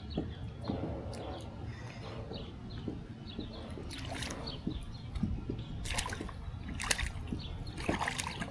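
Water sloshing with sharp splashes about four, six, seven and eight seconds in, from a small hooked catfish thrashing at the surface as it is brought up to the kayak.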